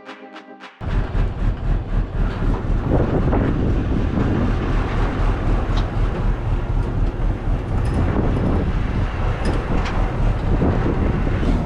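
A short bit of music cuts off about a second in. Then loud wind buffets the microphone over a steady low vehicle rumble.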